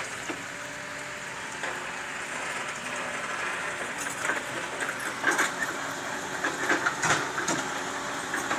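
A heavy vehicle's engine running steadily, with scattered metallic knocks and rattles that come more often in the second half.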